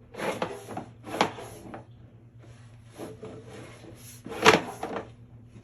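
Sewer inspection camera's push cable being fed into the drain line, giving short scraping, sliding bursts, the loudest about four and a half seconds in, over a faint steady low hum.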